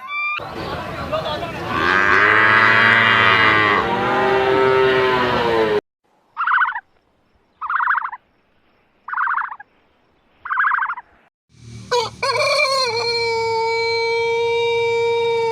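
Farm animal calls cut one after another: a long cow moo lasting about five seconds, then four short, evenly spaced higher-pitched calls separated by silence, then a long, very steady call that starts about twelve seconds in.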